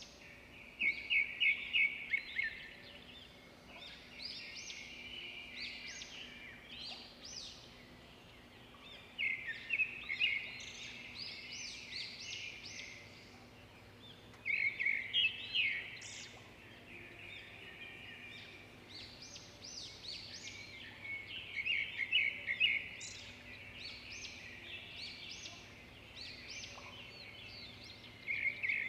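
Birds singing: a bright trilling phrase of quickly repeated notes comes back several times, with scattered chirps between.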